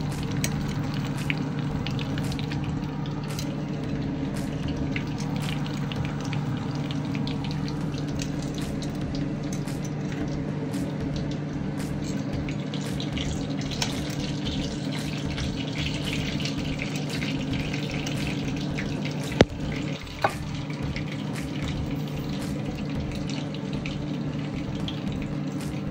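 Breaded chicken nuggets sizzling and crackling in hot frying oil, over a steady low hum. Two sharp clicks about a second apart come a little after two-thirds of the way through.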